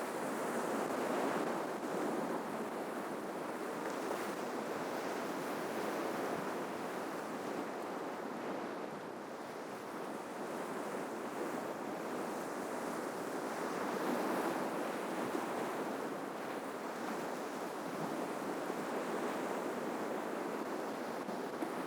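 Ocean waves breaking and washing on the shore, a continuous surf rush that swells twice, near the start and about two-thirds of the way through.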